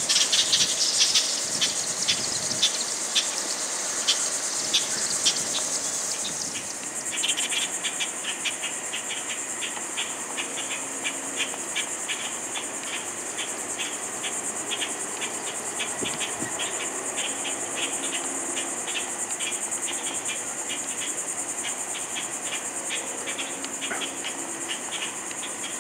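Insects chirping: a steady high-pitched buzz, joined about seven seconds in by a rapid pulsed chirp that repeats about four times a second.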